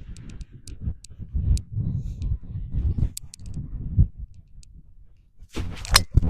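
Wind buffeting the microphone in uneven low gusts, then near the end a brief rush of noise and a single sharp crack of a golf club striking the ball.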